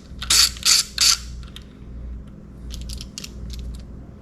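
Hand ratchet wrench clicking in short strokes as it snugs down the ignition coil bolts, three quick strokes in the first second, followed by a few small metallic clicks and taps.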